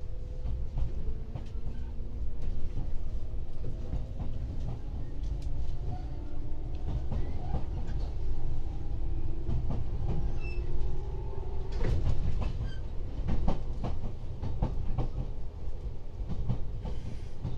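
JR 113 series electric train running, with a steady low rumble and the whine of its traction motors rising in pitch as it picks up speed. About two-thirds of the way in, a run of sharp clacks and knocks from the wheels passing over rail joints or points.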